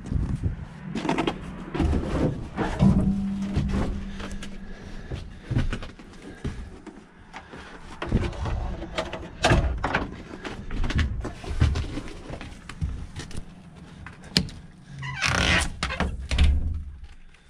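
Irregular knocks, clunks and rattles of things being handled and moved about, with a short low hum about three seconds in and a louder scraping, rustling burst near the end.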